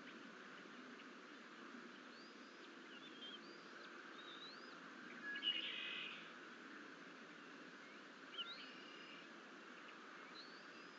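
Faint bird calls, short rising and falling whistles, scattered over a steady background hiss, with one louder burst of calls about five and a half seconds in.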